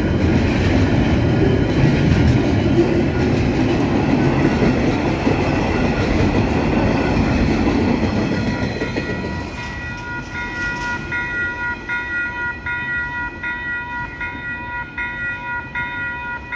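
Freight wagons rolling past over the rails with steady wheel clatter, fading away about eight seconds in as the end of the train clears the crossing. After that the level crossing's warning bells are heard alone, ringing in a steady pulse about twice a second.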